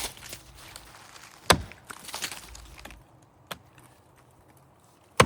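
Axe chopping into the trunk of a big maple tree to open an undercut. A loud, sharp strike lands about a second and a half in and another at the very end, with a faint knock between them.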